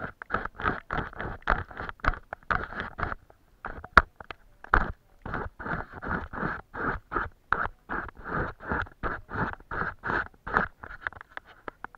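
Paintbrush scratching back and forth on paper in quick strokes, about three a second. The strokes pause briefly about three seconds in, and there is one sharp tap at about four seconds.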